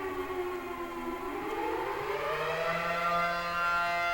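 A siren wailing: its pitch slides down, rises again from about a second in, and then holds steady.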